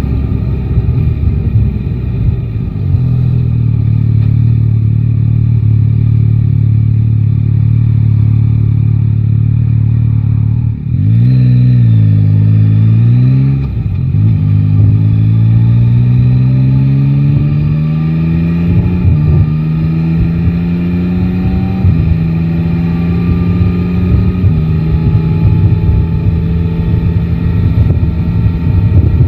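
Yamaha Tracer 9 GT's inline three-cylinder engine heard from the rider's seat. It runs steadily, gives a short rev about eleven seconds in, then accelerates through the gears, its pitch climbing and stepping down at each of three upshifts. Wind rush covers the engine near the start and the end.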